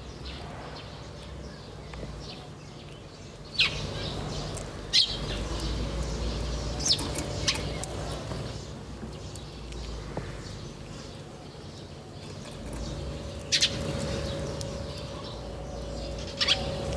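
Wild birds chirping: short, sharp high-pitched chirps at irregular intervals, several seconds apart, over a low steady background rumble.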